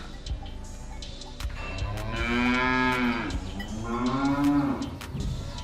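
Cow mooing: two long moos, one right after the other, each rising and then falling in pitch, with faint clicks scattered underneath.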